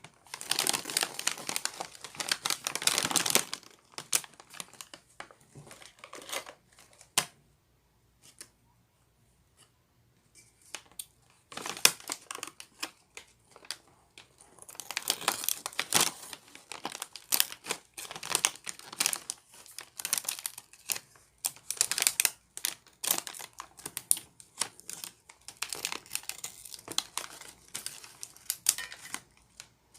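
Plastic snack bag of Kkobuk Chip turtle chips crinkling and crackling as it is handled. There is a loud stretch at the start, a few scattered ticks for several seconds, then dense, uneven crinkling from about twelve seconds in.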